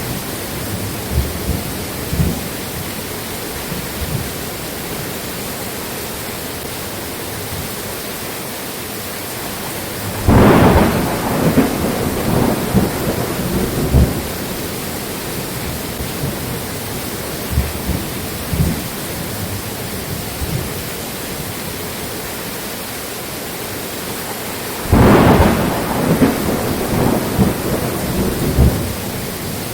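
Steady rain with thunder: two loud claps, about ten seconds in and again near twenty-five seconds, each rolling on in low rumbles for a few seconds, with fainter low rumbles in between.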